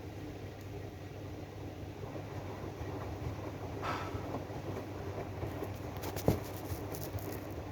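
AEG washing machine running its 95 °C drum-clean programme: a steady low hum as the drum turns, with a short swish about four seconds in and a sharp click a little after six seconds.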